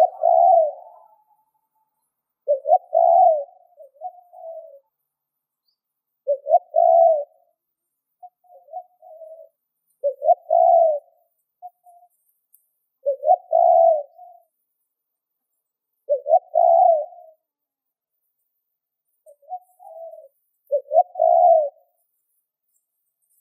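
Spotted dove cooing: a phrase of short notes ending in a longer, louder coo, repeated about every three seconds.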